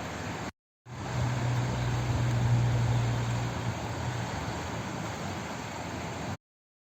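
Steady rushing of flowing water, with a low hum underneath that grows stronger between about one and four seconds in. It drops out completely for a moment about half a second in, then cuts off abruptly to silence shortly before the end.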